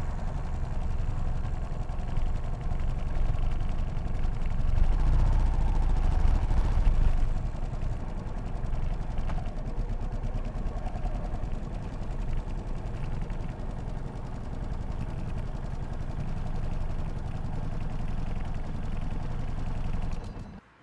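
Yamaha SR500's air-cooled single-cylinder four-stroke engine running. It grows louder about four seconds in, eases back a few seconds later, and cuts off abruptly near the end.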